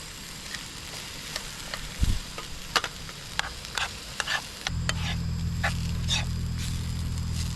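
Beef burgers sizzling in a frying pan, with scattered pops and crackles of spitting fat. About two-thirds of the way in a steady low hum starts and carries on under the sizzling.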